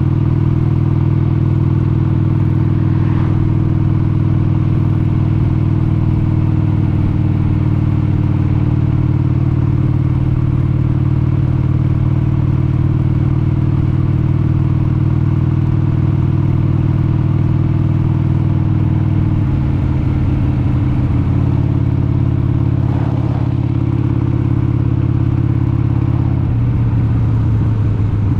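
1996 Harley-Davidson XLH883 Sportster's 883 cc air-cooled V-twin engine running steadily while riding at cruising speed. Its note changes about two-thirds of the way through and again near the end.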